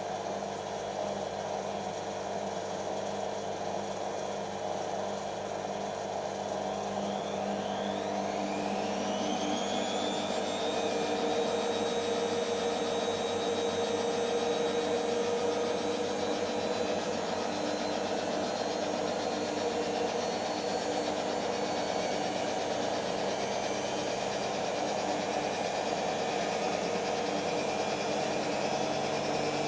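Creda Simplicity W120VW washing machine spinning: its motor whine rises in pitch as the drum speeds up about eight seconds in, then holds a high whine that creeps slowly upward. The motor is faulty and struggles to put power in smoothly.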